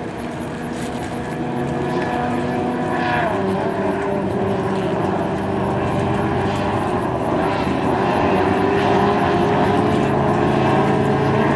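Racing boat engine running at speed on the water, growing steadily louder as it comes closer, its pitch shifting about three seconds in.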